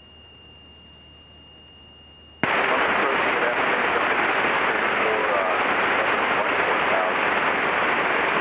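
Aviation radio feed: a faint steady high-pitched whine with low hum, then about two and a half seconds in a loud rush of radio static cuts in and holds steady, with faint garbled voice buried in it, as from a weak or stepped-on transmission.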